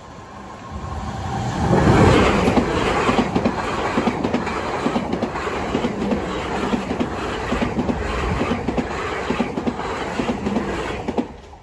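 Two coupled Class 444 Desiro electric multiple units passing over a level crossing. The noise builds quickly to its loudest as the front of the train arrives about two seconds in, then holds as a steady rush with a rhythmic clickety-clack of the wheels. It drops away sharply as the last car clears near the end.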